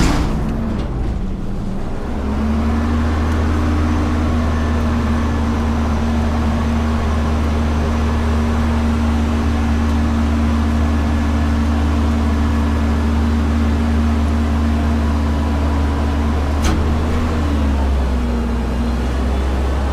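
Front-load garbage truck's diesel engine stepping up to raised, steady revs about two seconds in and holding there before dropping back near the end, typical of the engine driving the lift-arm hydraulics. A sharp bang comes right at the start and a single click comes near the end.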